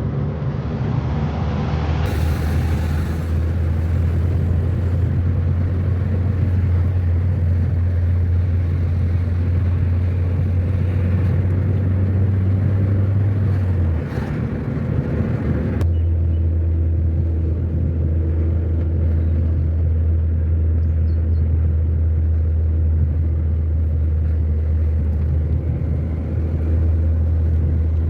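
Car driving on the road: a steady low drone of engine and road noise, which cuts abruptly to a slightly different drone a little past halfway.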